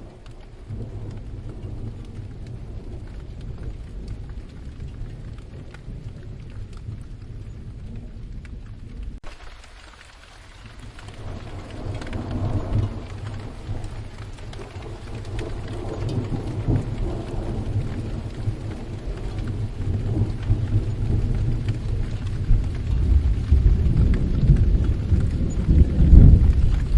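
Steady rain with low rolling thunder. The rumble dips about ten seconds in, then builds again in several swells, loudest near the end.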